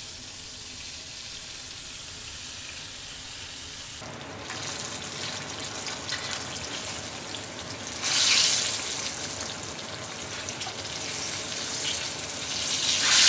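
Flour-dredged speckled trout fillets sizzling steadily as they pan-fry in hot oil in a stainless steel skillet. The sizzle grows louder about four seconds in and swells twice, about eight seconds in and near the end, as the fillets are turned and lifted with tongs.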